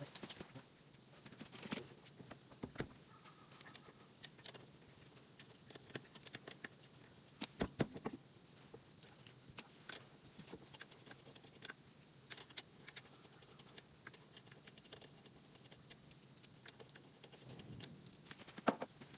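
Scattered light clicks and knocks from handling tools and wheel parts during a tyre change, with a few sharper knocks about two seconds in, around eight seconds in and near the end.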